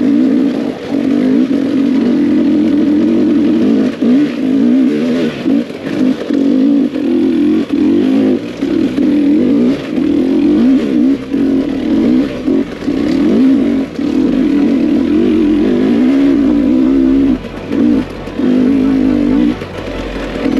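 Husqvarna TE300 TBI two-stroke engine with its FMF exhaust, revving hard under load, the throttle opened and shut again and again so the note keeps rising and breaking off.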